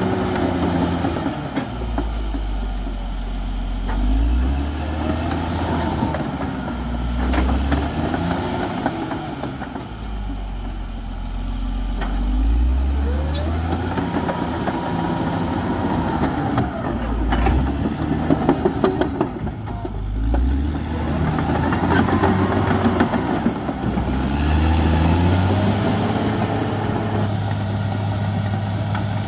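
CAT D6R XL bulldozer's diesel engine working under load, its pitch rising and falling every few seconds as it pushes and eases off. A run of sharp knocks comes about two-thirds of the way through.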